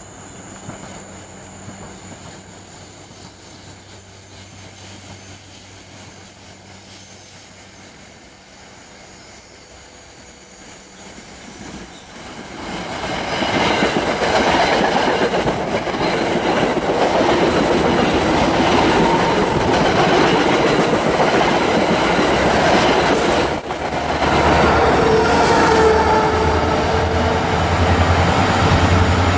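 NJ Transit commuter train approaching and passing close by: the sound of wheels on rail grows steadily louder, then the multilevel coaches clatter past. It breaks off suddenly about two-thirds of the way in, followed by another train approaching with a low, steady locomotive engine drone.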